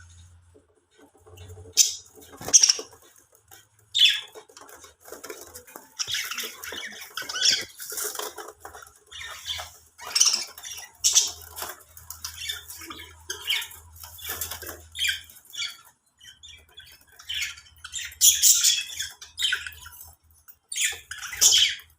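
Budgerigars chirping and squawking in short, irregular bursts of high-pitched chatter.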